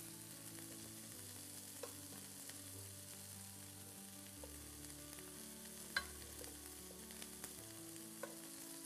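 Faint, steady sizzling of beef steak slices frying in a hot pan and butter heating in a pot, with a few light clicks, the sharpest about six seconds in.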